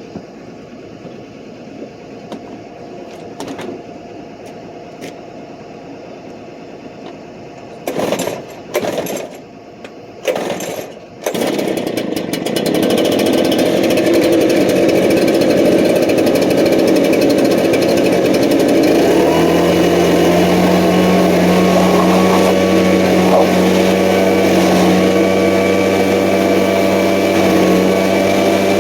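Echo two-stroke leaf blower pull-started with a few short tugs about eight seconds in, catching and running, then settling into a steady high-speed note about halfway through, used to blow dust out of a diesel engine's air filter.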